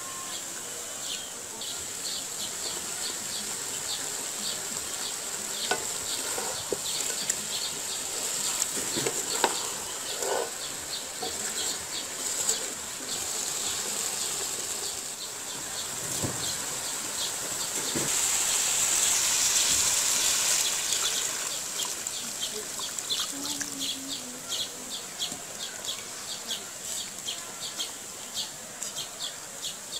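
Mutton, onions and spice paste frying and sizzling in a metal pot while a wooden spatula scrapes and knocks against the pot now and then; the sizzle swells for a few seconds past the middle. Rapid chirping runs steadily in the background.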